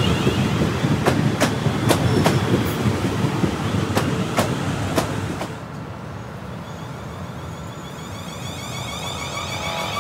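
Electric passenger train running past, a steady rush of wheel and rail noise with sharp clicks as the wheels cross rail joints, dying away about halfway through. A fainter high ringing from the rails then builds toward the end.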